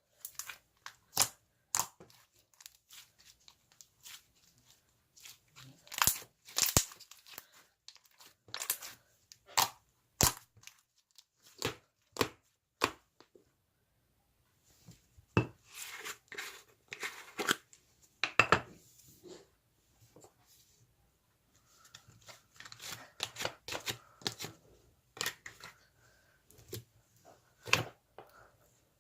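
Slime being squeezed and stretched by hand, making irregular sharp pops and clicks with stretches of softer crackling.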